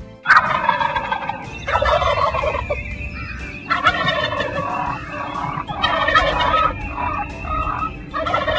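Turkey gobbling, about five bouts of rapid rattling calls with short breaks between them.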